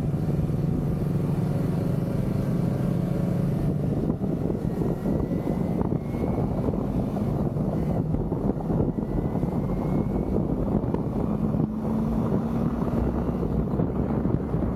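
Motorcycle engine running steadily while riding, over a low rush of wind, with a slight rise in engine pitch a little before the end.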